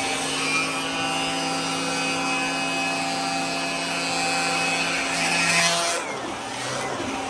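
Vacuum cleaner running with a steady motor whine over a rushing airflow; the sound shifts about six seconds in, as the head is moved or the load on the motor changes.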